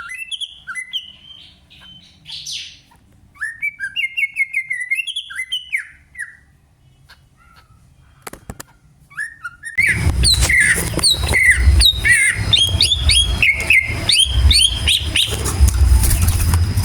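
Green leafbird (cucak ijo) singing a lure song of varied chirps and warbled, slurred phrases, with pauses between them at first. About ten seconds in, the song turns louder and busier over a low rumbling background.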